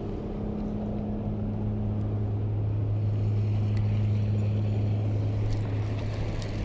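Boat motor running steadily with a low, even hum, growing slightly louder.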